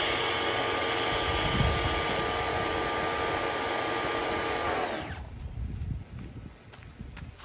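VEVOR pressure washer running and spraying, a steady hiss with a held motor whine. About five seconds in the whine slides down in pitch and the sound stops as the washer shuts off, leaving a few small knocks.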